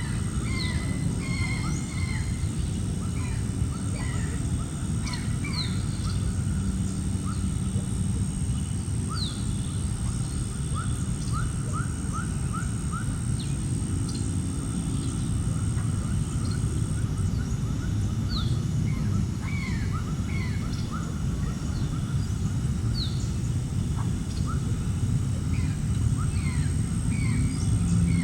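Birds calling outdoors: many short, falling chirps scattered throughout, with a quick run of chirps about twelve seconds in, over a steady low rumble and a thin, steady high-pitched whine that drops out for a while in the middle.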